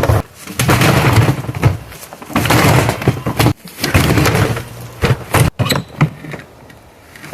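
A dishwasher being smashed and wrenched apart by hand: loud crashing and rattling of its metal and plastic parts in several bursts, each about a second long, with a few sharp knocks near the end.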